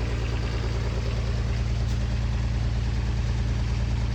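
An engine running steadily: a low, even hum with a rapid regular pulse and no change in speed.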